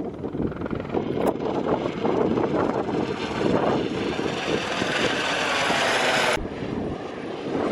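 Strong wind buffeting the camera microphone in uneven gusts. The higher hiss cuts off suddenly about six seconds in.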